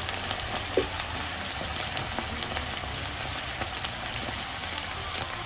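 Onion and soy-oyster sauce sizzling in a hot wok over low heat: a steady soft hiss with scattered small pops.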